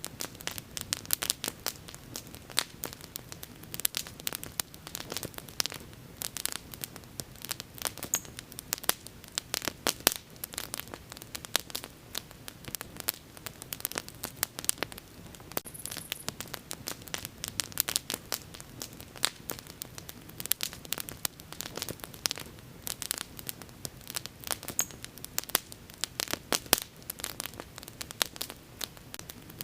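Wood bonfire crackling: dense, irregular pops and snaps throughout, over a soft low rumble of the burning.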